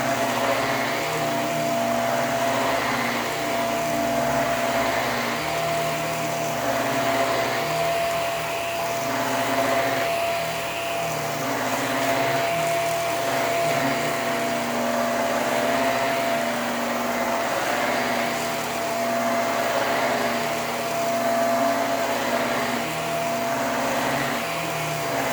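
Hoover WindTunnel PowerDrive Pet bagless upright vacuum running, its motor giving a steady high whine over a lower hum that shifts up and down in pitch every second or two.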